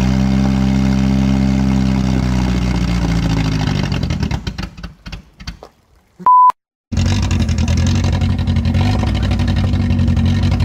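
Car engine running at raised revs, held steady, then sagging in pitch and dying away about four seconds in. After a short high beep and a moment of silence, the engine is heard running steadily again.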